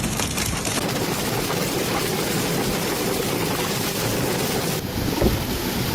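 Steady rushing noise of a storm, wind and rain, with a short break in it near the end.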